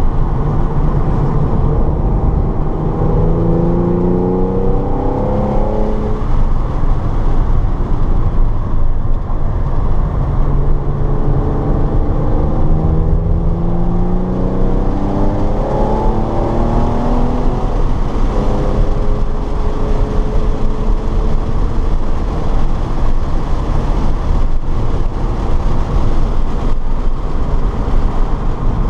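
Car engine heard from inside the car while lapping a race track, over a constant heavy rumble of road and wind noise. The engine note rises in pitch twice under hard acceleration, then holds fairly steady.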